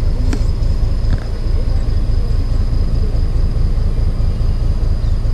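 Narrow gauge train running along the track, heard from on board: a loud, steady low rumble and rattle with a few faint clicks and a thin, steady high whine.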